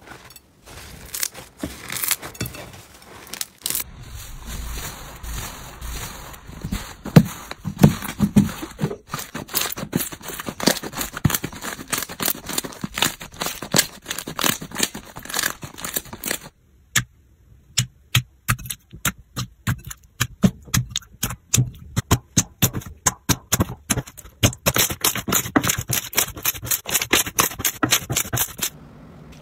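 Crunchy slime being squeezed and poked by hand, giving dense crackling and popping clicks. The sound comes in several short takes, with a brief break a little past halfway.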